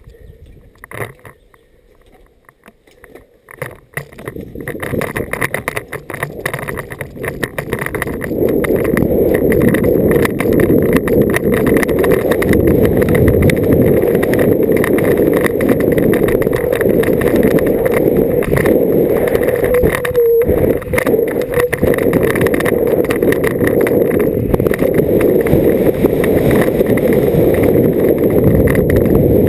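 Downhill mountain bike riding a rough trail: wind rushing over the microphone with the bike rattling and knocking over bumps. Starts quiet with a few knocks, builds from about four seconds in, and stays loud and steady from about eight seconds in as speed picks up.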